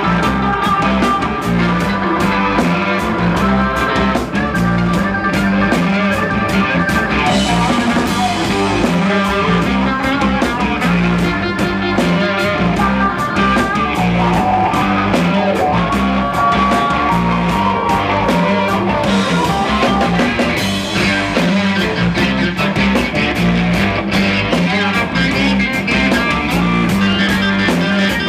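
Rock band playing live: guitar over a steady drum beat, the music running on without a break.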